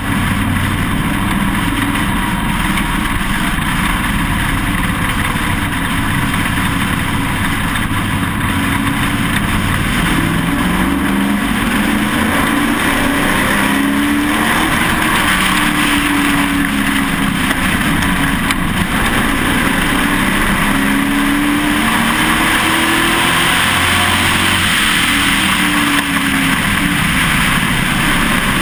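Onboard sound of a Pro Truck race truck's engine running hard, its pitch rising and falling every few seconds as it accelerates and lifts around the track, under heavy wind and road noise.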